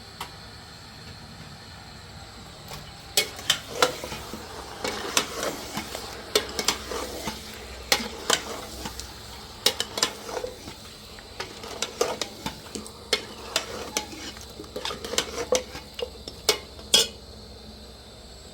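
Irregular scraping broken by sharp metallic clinks, a metal implement worked against a hard surface or container. It starts about three seconds in and stops shortly before the end.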